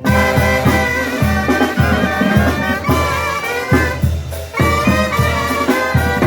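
Brass band music: horns playing a melody over a steady drum beat.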